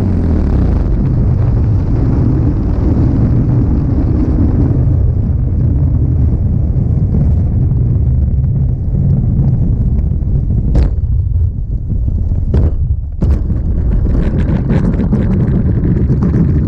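Loud rumbling wind buffeting on a radio-controlled model airplane's onboard camera microphone, with the engine throttled back. A few sharp knocks come about 11 to 13 seconds in, followed by a run of crackling clicks.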